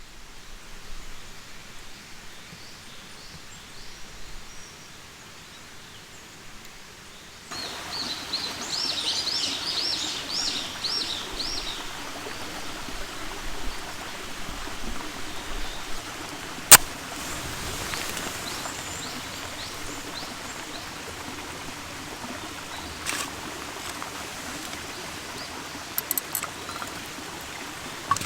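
Steady outdoor background hiss that steps up in level about a quarter of the way in; just after, a bird sings a quick run of high chirps for a few seconds. A single sharp click comes about halfway through, with a few fainter clicks later.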